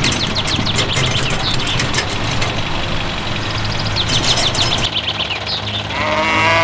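Birds chirping in quick runs over a steady low hum, with a short wavering animal call near the end.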